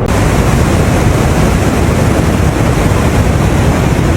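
Loud, steady roar of a large waterfall: rushing, crashing water with a heavy low rumble.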